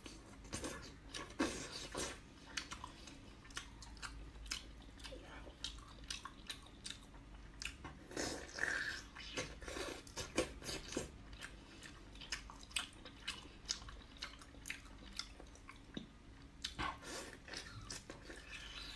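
Close chewing and biting on cooked octopus tentacles: irregular wet smacks, sucking and small clicks as the rubbery flesh is bitten off and chewed.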